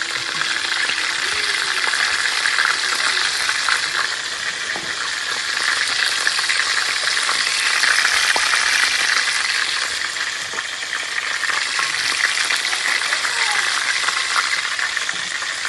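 Fish pieces frying in hot oil in a pan, with a steady crackling sizzle.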